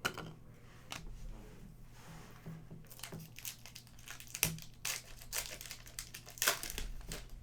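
Crinkling and crackling of trading card pack wrappers and packaging as they are handled, with irregular sharp crackles, the loudest a little past the middle and near the end.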